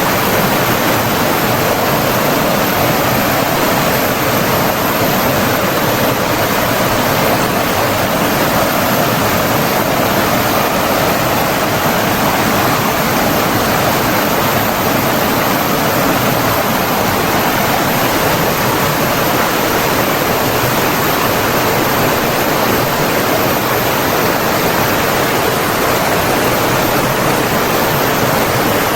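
Steady, even rush of flowing water, as from a stream.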